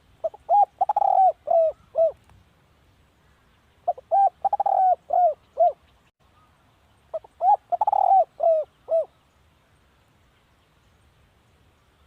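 Spotted dove cooing: three phrases of about five short coos each, roughly three and a half seconds apart.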